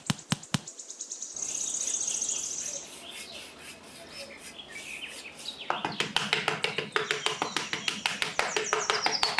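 Birds chirping, with a high trill about a second in. From about halfway, a rapid run of sharp clicks or taps, several a second, joins the chirps.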